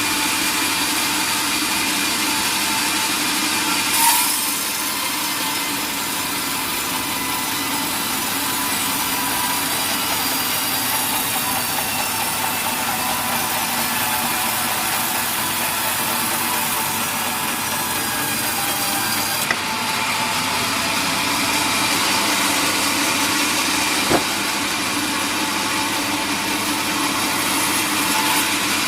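Sawmill saw running steadily through a mahogany log, with a sharp knock about four seconds in and a couple of brief clicks later on.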